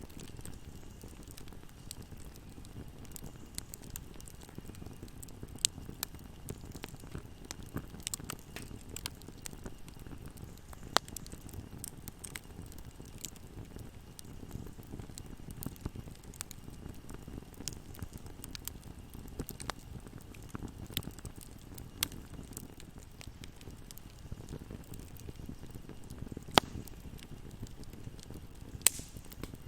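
Wood fire burning in a fireplace: a steady low rumble of flames with irregular sharp crackles and pops throughout, a few of them much louder.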